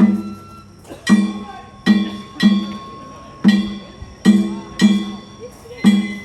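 Danjiri narimono (festival float percussion) being practised: about eight heavy struck beats in a slow, uneven rhythm. Each beat is a deep drum stroke together with ringing metal that dies away.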